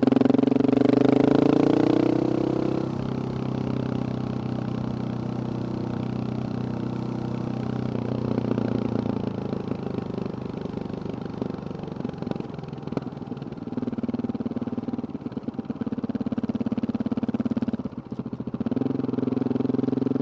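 Husqvarna 701's single-cylinder four-stroke engine through a Wings exhaust: the revs climb over the first two seconds, then it runs at a steadier, lower speed with a few brief rises in revs.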